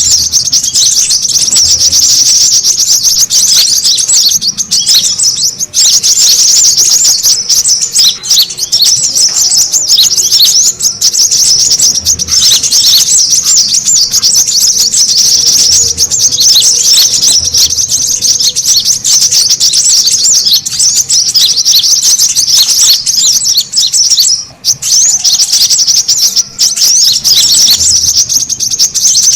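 Brown-throated sunbirds (kolibri kelapa) chattering busily: a dense, high-pitched stream of rapid chirps and twitters that barely pauses, the noisy call used as a lure for sunbirds.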